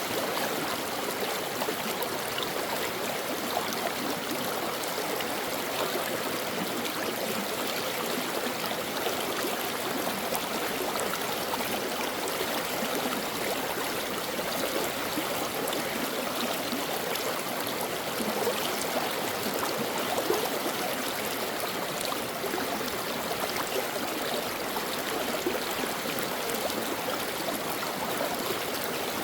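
A brook flowing steadily, a continuous babbling rush of water with small splashes and gurgles throughout.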